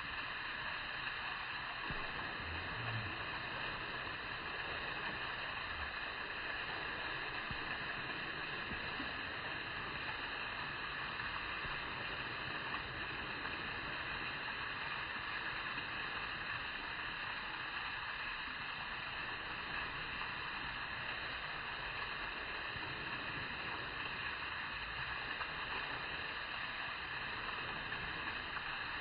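Steady, even rushing noise with no distinct events or calls.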